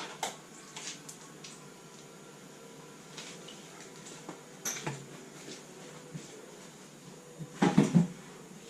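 Metal tools and parts clinking and knocking while a classic Mini's engine is being taken out, in scattered single knocks. A louder quick cluster of clanks comes near the end.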